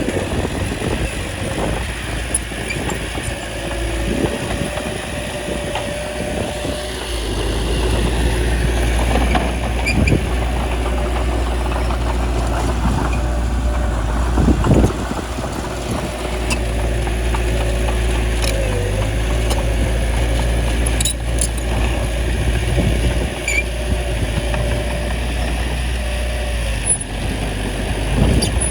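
Small bulldozer's diesel engine running steadily under work, with a few short knocks.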